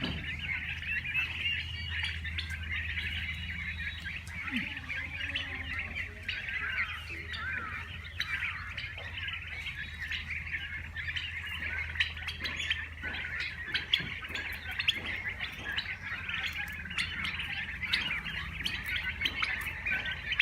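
A flock of birds chirping and calling all at once, a dense, continuous chatter of many short high calls, over a steady low hum.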